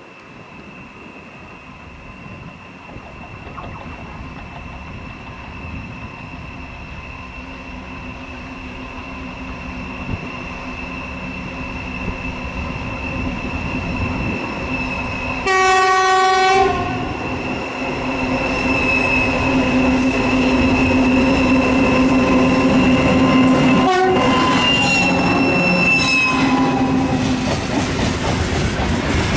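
A 2TE116 twin-section diesel freight locomotive approaches, its engines' drone and whine growing steadily louder. About halfway through it gives one horn blast of about a second. In the last few seconds the wheels start clicking over rail joints as it passes.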